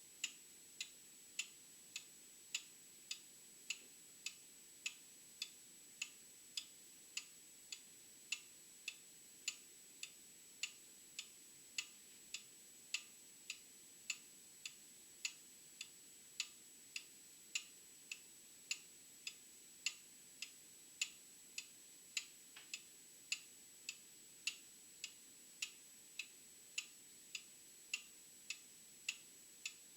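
Old mechanical clock ticking steadily, a little under two ticks a second. A faint steady high-pitched whine runs underneath.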